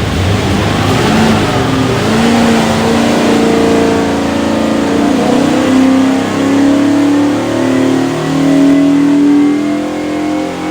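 347 cubic-inch small-block Ford stroker V8 running on an engine dyno, revving up from idle about two seconds in, then its pitch rising and falling several times as it is revved.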